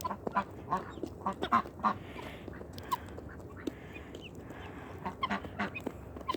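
Backyard chickens clucking, a run of short scattered calls with no steady rhythm.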